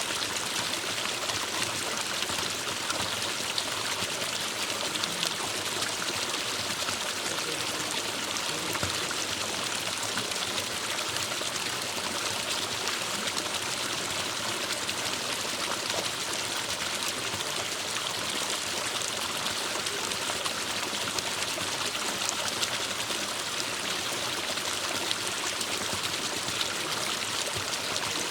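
Forest stream flowing and trickling over rocks: a steady, even rush of water with fine splashing detail.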